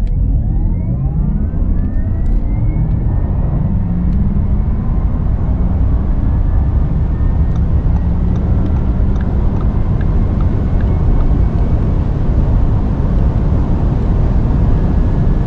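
Electric performance car accelerating hard: a thin electric motor whine rises in pitch over the first two or three seconds and then holds steady, over loud, continuous road and wind noise.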